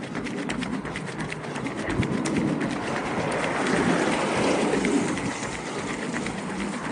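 Tyre hiss of a vehicle passing on a wet road, swelling and fading over about three seconds, over a steady run of small ticks.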